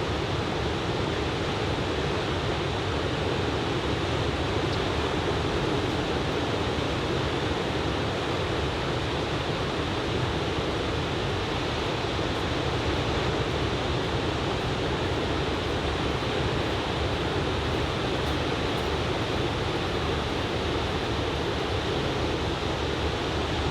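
Steady wash of ocean surf breaking on a beach, raised by a typhoon swell: a constant noise with no single wave crash standing out.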